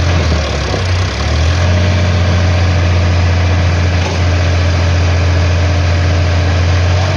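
Heavy diesel engine idling steadily with a deep, even drone.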